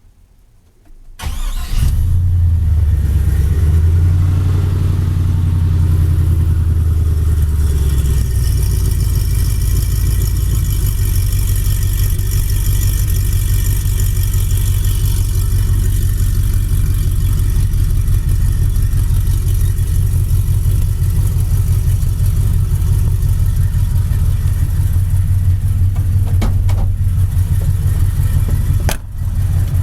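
2001 5.3-litre Vortec V8 cranking briefly and catching on a cold start, about a second and a half in. It runs at a fast idle that drops to a lower, steady idle about eight seconds in, breathing through MagnaFlow mufflers.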